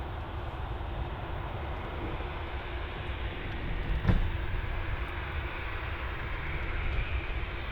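Jet airliner engines running, a steady rumble, with a single sharp knock about four seconds in.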